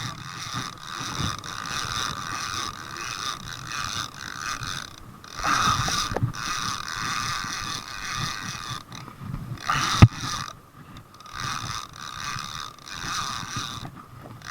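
Fishing reel being worked: a steady mechanical whirring ratchet that stops and restarts several times, with one sharp knock about ten seconds in.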